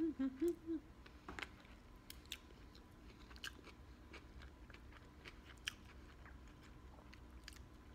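A short hummed "mm" in the first second, then faint chewing of a mouthful of sandwich, with scattered crisp clicks and small crunches.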